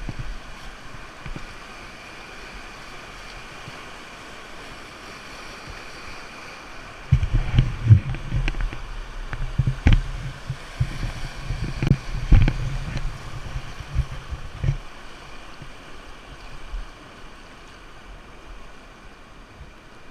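River water rushing around a raft, heard as a steady wash. From about seven to fifteen seconds in there is a louder low rumble with several sharp knocks.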